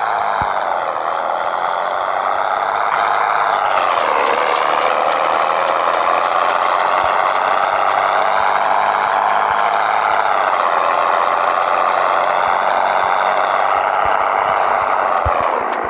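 Scania 113 truck's diesel engine running steadily, its pitch dipping briefly about four seconds in and then holding level.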